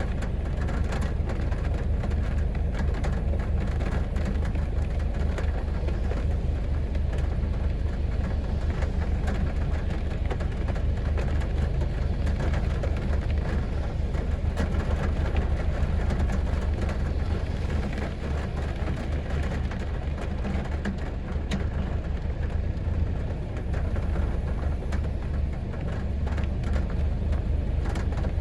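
Heavy rain falling on a city street: a dense, steady hiss full of individual drops ticking, over a deep low rumble.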